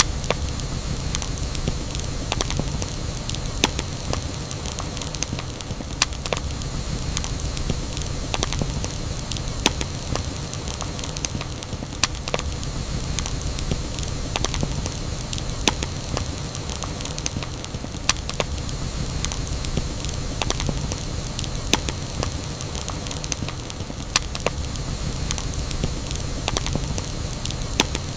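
Campfire burning, crackling steadily with frequent sharp, irregular pops over a continuous low rumble of the flames.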